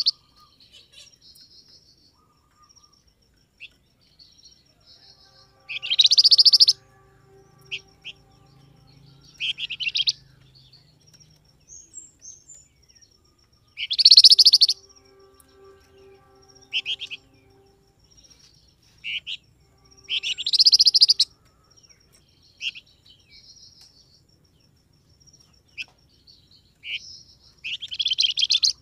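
Flamboyan songbird calling: loud, rapid, high chirping phrases about every three to four seconds, with softer short twitters between them.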